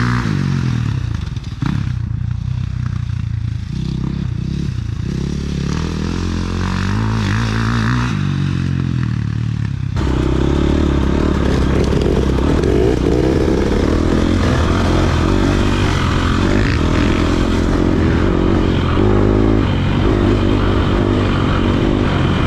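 Dirt bike engine revving up and down under load on a hill climb. About ten seconds in, the sound switches abruptly to a louder, closer engine.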